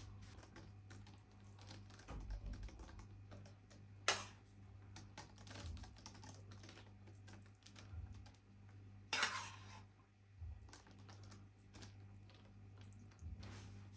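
Many small irregular taps and clicks of hand food preparation on a work surface, with two louder sharp knocks about four and nine seconds in, over a steady low hum.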